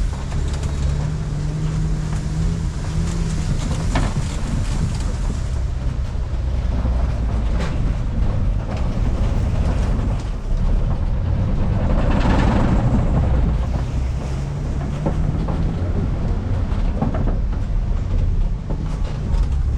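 Safari ride truck driving along a rough dirt track: a steady low engine rumble with road noise, a few short knocks and rattles, and a louder rush of noise about twelve seconds in.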